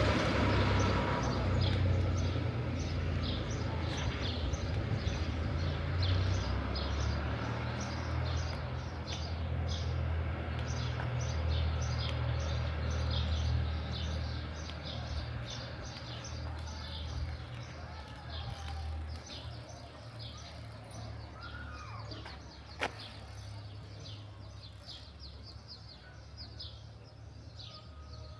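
A low vehicle rumble fading steadily as it moves away, under rapid, repeated bird chirps, with one sharp click late on.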